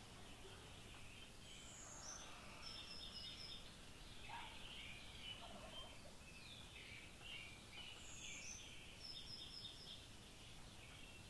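Faint birdsong: several small birds chirping, with one phrase of a high falling note followed by four quick short notes heard twice.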